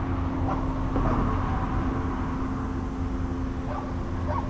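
A dog barking a few times, faint and short, over a steady rumble of traffic and a low hum.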